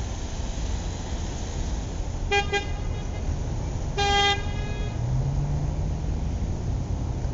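A car horn sounding two quick short toots, then a single longer toot a moment later, over the steady noise of road traffic. Near the end a passing engine's low note builds.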